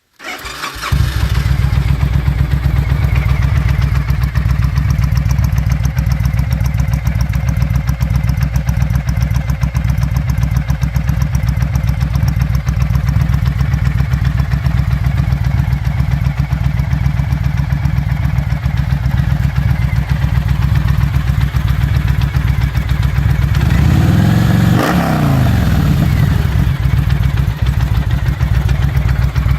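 Victory Vegas motorcycle's Freedom V-twin, breathing through aftermarket slip-on mufflers on an otherwise stock bike, starts up and settles into a steady idle. About 25 seconds in, a single blip of the throttle raises the engine's pitch and lets it fall back to idle.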